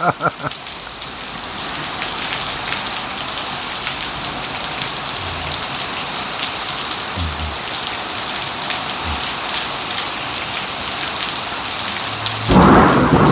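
Heavy rain pouring down steadily in a thunderstorm downpour, with a loud burst of thunder near the end.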